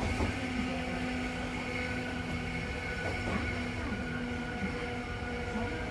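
Randen (Keifuku Electric Railroad) car running along the track, heard from inside the car: a steady low rumble with a constant hum.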